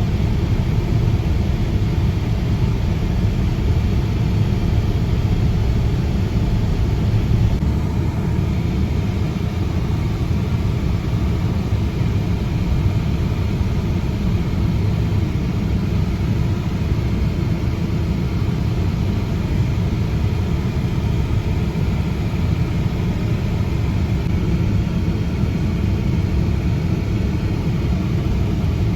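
A vintage tractor's engine running steadily under way, a constant low rumble.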